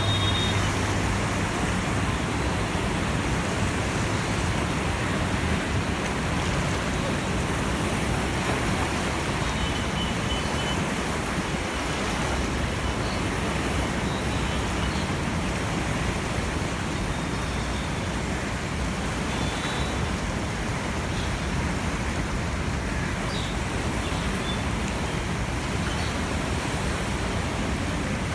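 Steady rushing roar of the flooded Yamuna's high water pouring through the Wazirabad barrage, even and unbroken.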